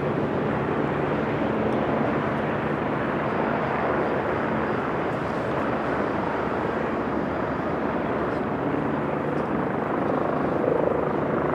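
Jet airliner engines passing close by, a loud, steady rushing noise that holds level throughout and eases slightly near the end.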